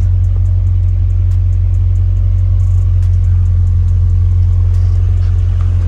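Toyota BEAMS 3S-GE two-litre four-cylinder engine, swapped into a 1974 Datsun 620 pickup, idling with a steady low rumble.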